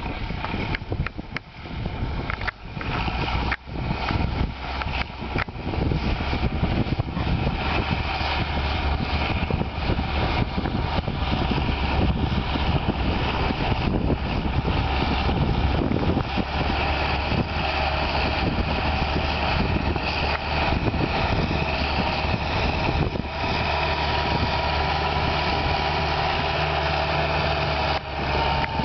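Massey Ferguson 5455 tractor's diesel engine running steadily while pulling a three-furrow plough.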